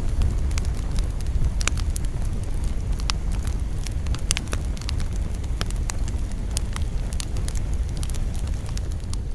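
Wood campfire burning, crackling with many sharp irregular pops over a steady low rumble.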